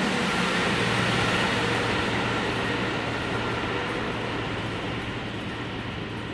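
Electric train running past on the line, a steady rumble with a faint hum that slowly fades as it draws away.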